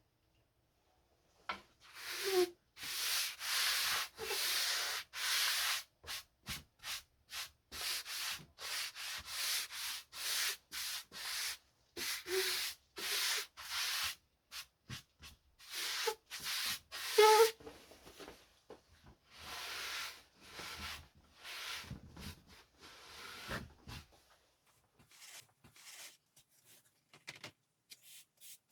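Hand sanding on the wood of an antique cabinet: abrasive rubbed back and forth in quick strokes, about two a second at the busiest, in runs with short pauses, lighter and sparser near the end.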